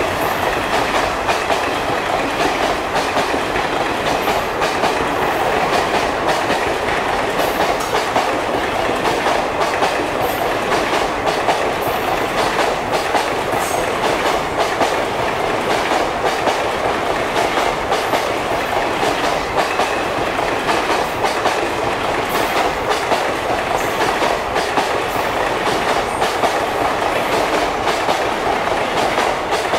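Passenger coaches of an express train running through a station at speed, a steady loud rush of wheels on rail with many sharp clicks as the wheels cross rail joints.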